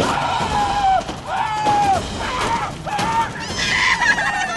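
A high-pitched voice singing a tune in drawn-out, held notes, each note bending up and falling away at its end.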